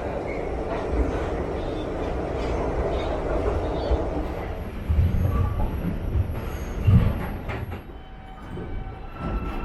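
New York City subway train running with a steady rumble, then a run of heavy low thuds about halfway through before the sound eases off near the end.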